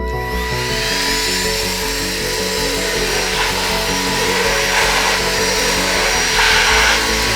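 Small cordless vacuum cleaner motor coming on at the start and running with a steady high whine over background music. The suction noise swells twice, about halfway through and near the end.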